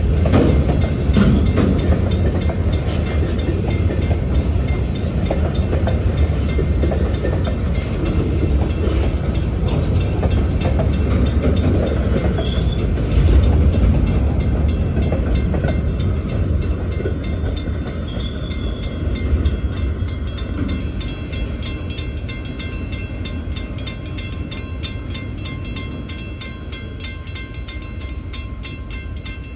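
New York and Atlantic Railway freight train rolling past with a steady low rumble of wheels on rail and a couple of brief high wheel squeals. It fades gradually over the last third as the train moves away.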